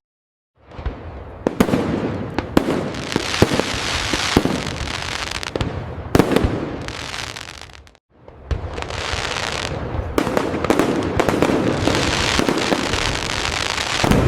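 Fireworks display: a dense run of sharp bangs and crackling bursts. It starts after a moment of silence, breaks off briefly about eight seconds in, then picks up again just as dense.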